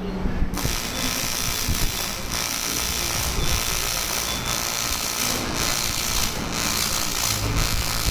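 AC TIG welding arc on aluminium, a steady hiss that starts about half a second in, with a few brief dips.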